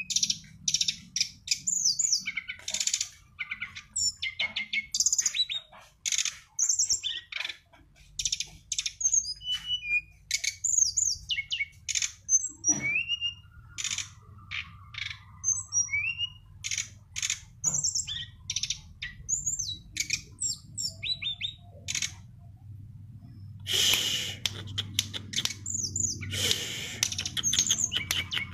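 Brown-chested jungle flycatcher (sikatan rimba dada coklat) singing a fast, varied song of sharp whistled notes, quick rising and falling slurs and short trills, with two harsher, raspy phrases near the end. A faint low hum runs underneath.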